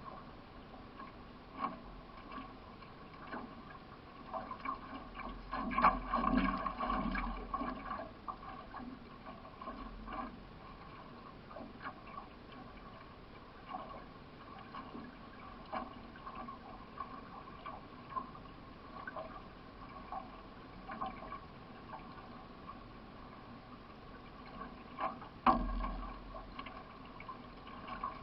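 Water splashing and gurgling around a solo racing canoe as it is paddled, with repeated paddle strokes and knocks. There is a louder spell of splashing about six seconds in and a sharp knock near the end.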